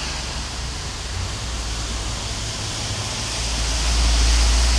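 Steady rush of floodwater running down a street in heavy rain, with a low rumble that grows louder about three and a half seconds in.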